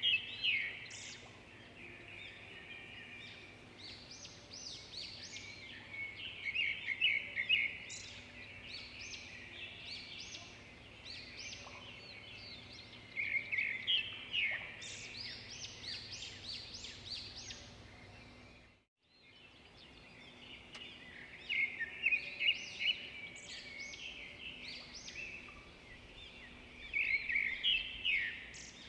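Swiftlets twittering: clusters of rapid, high chirps every few seconds over a faint steady hum, with a brief dropout about two-thirds of the way through.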